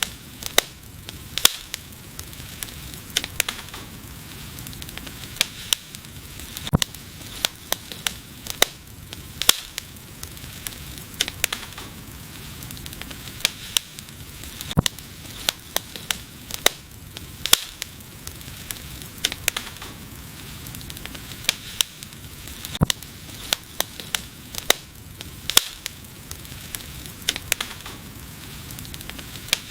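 Wood fire crackling: irregular sharp pops and snaps, several a second at times, over a steady low hiss.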